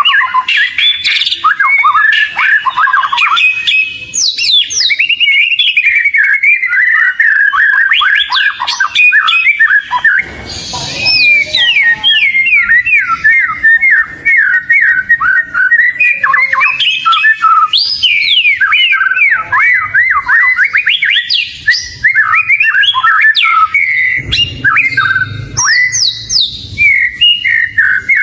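Oriental magpie-robin (kacer) singing continuously in fast, varied whistled phrases, sliding notes and trills. A brief burst of noise comes about ten seconds in, and a low rumble near the end.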